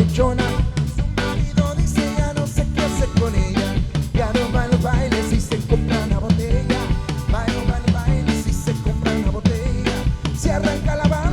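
Live band playing an instrumental passage with a steady, driving drum beat of bass drum, snare and rimshots, amplified through a PA system.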